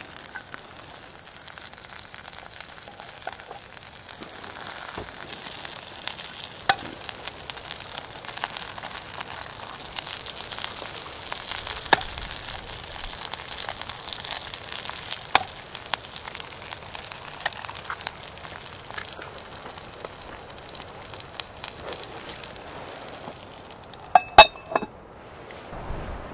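Sausages sizzling and spitting in a cast iron pan over a wood fire, a steady hiss broken by scattered sharp pops. Near the end the hiss fades, and a quick cluster of loud metal clanks follows as cast iron is set on cast iron.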